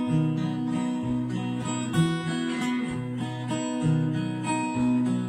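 Acoustic guitar playing a song intro in a steady plucked and strummed pattern, the picking style the players call "the scratch".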